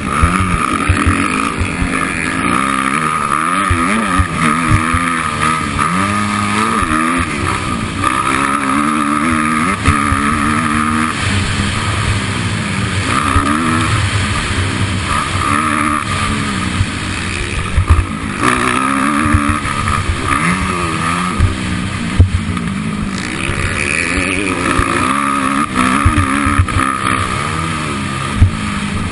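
Motocross bike engine revving up and falling back again and again, over and over, as the bike is ridden around the track.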